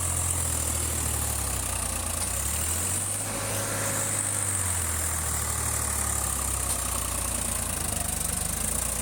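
Tractor engine idling steadily at low revs, its pitch shifting slightly a few times.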